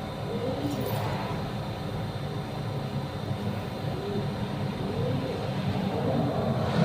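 A steady low mechanical rumble, like a running engine or heavy machinery, growing slightly louder near the end.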